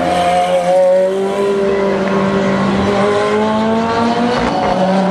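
Several GT race cars' engines running at speed, more than one at once, their pitch climbing and dropping as they accelerate and back off.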